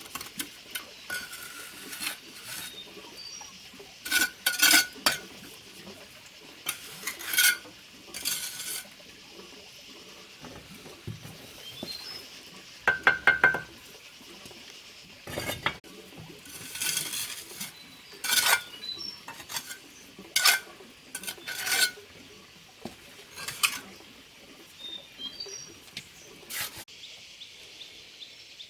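Metal tool knocking and scraping against hard material in irregular strokes, several of them ringing briefly with a metallic clink, over a steady high background hiss.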